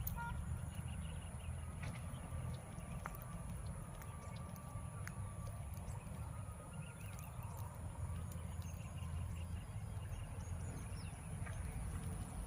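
Outdoor ambience: a steady low rumble with scattered faint chirps and ticks, over a constant high-pitched whine.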